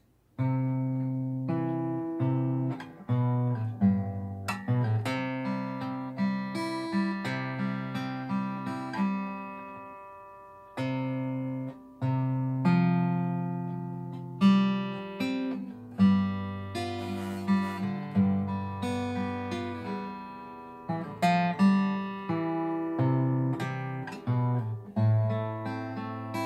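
Acoustic guitar playing a slow waltz in three-four time, starting on a C chord, the chords picked note by note with the odd strum.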